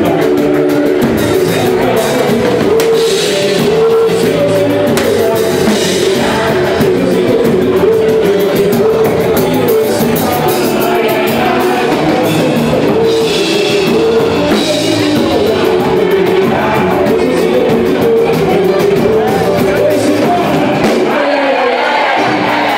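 Live samba band playing with singing over steady percussion.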